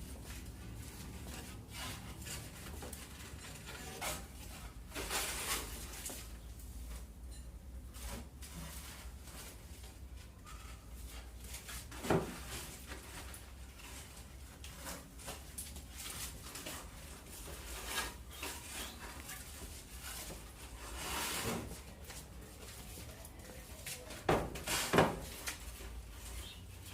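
Iron wire mesh being handled and laid against a wooden frame: scattered rustling, scraping and light knocks, with a few louder scrapes spread through.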